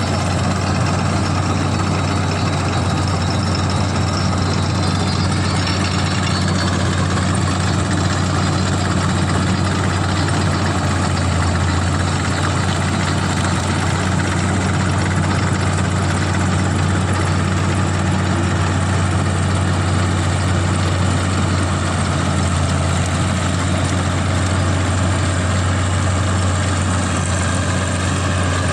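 CLAAS combine harvester running steadily while paddy is being cut: a constant deep engine hum with an even hiss of machinery above it.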